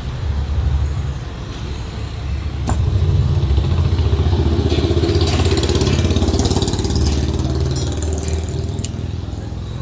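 A motor vehicle engine running, getting louder about three seconds in and easing back down near the end.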